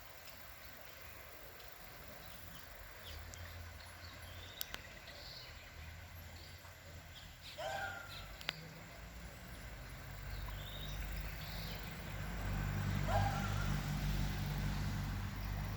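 Outdoor ambience with two short pitched calls, likely a bird, about halfway through and again near the end. A low motor hum swells louder over the second half.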